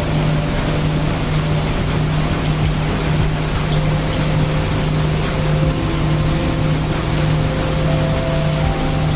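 Steady heavy rain sound mixed with brown noise: an even, unbroken hiss with a deep hum under it. Faint held tones step to a new pitch every second or two.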